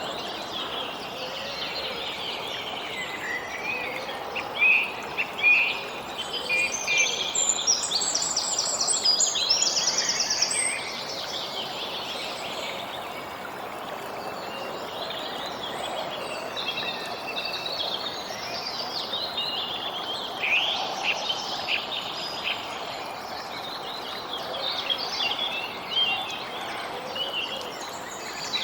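Songbirds chirping and calling over a steady outdoor background hiss, with a fast trill of rapid repeated notes about eight seconds in.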